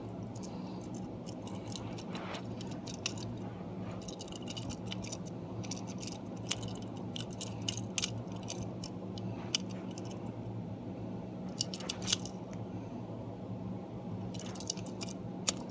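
Small toy train engines being handled and turned over: scattered light clicks and clinks of the toys, over a steady low hum.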